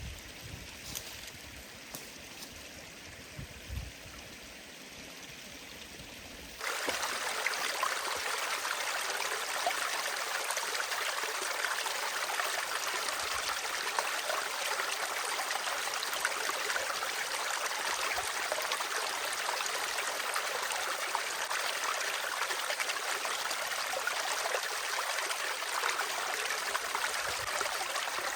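A forest stream running steadily. For the first few seconds it is fainter, with a few soft knocks; about six and a half seconds in it turns suddenly much louder and stays that way.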